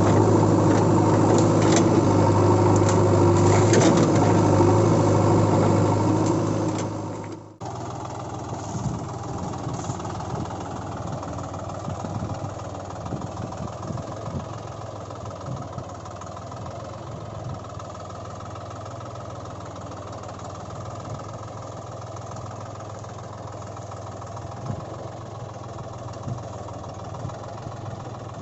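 Vehicle engine running steadily with a deep hum. About seven and a half seconds in, the sound cuts off sharply and gives way to a quieter engine idling steadily.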